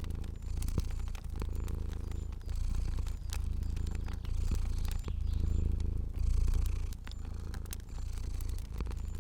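Domestic cat purring, a low steady rumble that swells and eases with each breath. Over it, a fire crackles with scattered sharp pops.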